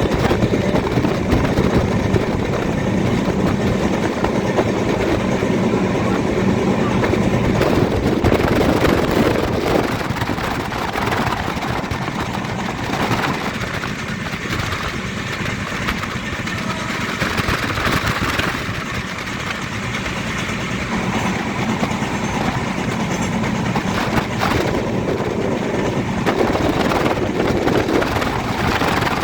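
Moving passenger train's steady running noise: a continuous rumble and rush, easing a little in the middle and rising again.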